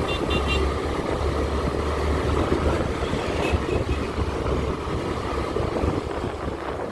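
Street traffic noise with a steady low rumble, like wind on the microphone while riding along the road. A quick run of four short high beeps comes at the start, and three fainter beeps come about three and a half seconds in.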